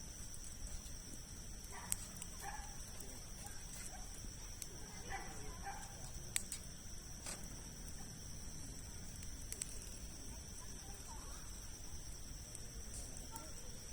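Wood campfire of large logs burning with occasional sharp crackling pops, over a steady high-pitched drone and faint distant voices.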